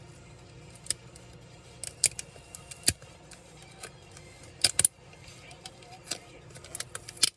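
Irregular sharp clicks and light metallic clinks, about a dozen, from small tools and parts being handled while a Dell Latitude 3301 laptop is taken apart. They sit over a faint steady low hum.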